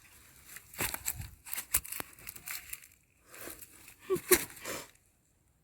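Rustling and crackling of weeds and leaves being handled up close, in two stretches of irregular bursts with a few sharp snaps, and a brief murmur of voice about four seconds in.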